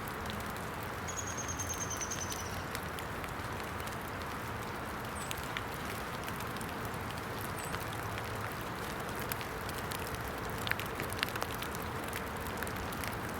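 Steady hiss of rain falling in the woods, with scattered small crackles and snaps from a small, damp twig fire just catching from its embers. A brief high trill comes about a second in.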